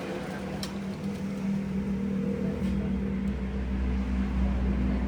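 A machine's motor or engine running with a steady hum, its low rumble growing louder about three seconds in; a light click sounds about half a second in.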